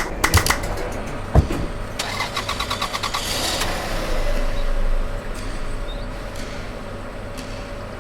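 An engine being cranked and starting, with rapid ticking about two seconds in, then running steadily.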